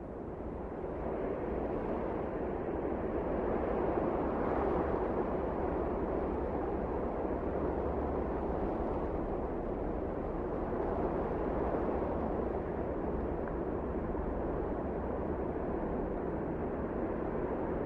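Strong wind blowing in a steady rushing noise, swelling over the first few seconds and then holding even.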